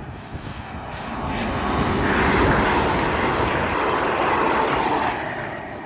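Avanti West Coast Class 805 Evero passenger train passing through at speed. It is a rushing noise that swells over about two seconds, holds, then dies away.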